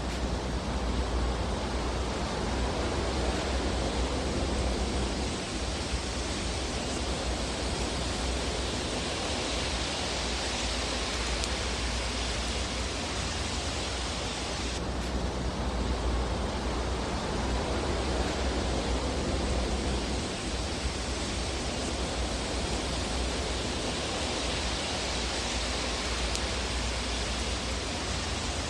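Steady rushing hiss of a looped fireplace ambience track, with slow swells and no distinct crackles; the loop seems to repeat about every fifteen seconds.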